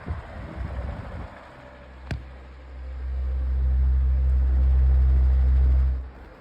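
Lasko 18-inch table fan running on medium speed while oscillating. A single click comes about two seconds in. A loud low rumble of air on the microphone then builds and holds for about three seconds, and cuts off suddenly near the end.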